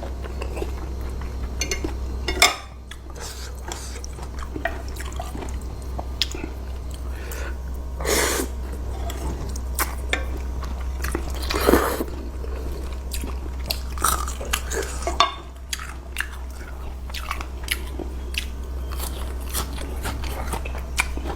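Close-miked eating of curry noodles: chewing and biting with many small wet mouth clicks and smacks, and a few louder moments about 8 and 12 seconds in. A steady low hum runs underneath.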